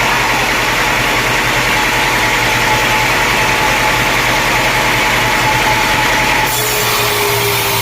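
Sawmill blade cutting through a log, with the mill's engine running under it. About six and a half seconds in, the blade comes out of the cut and the engine runs on.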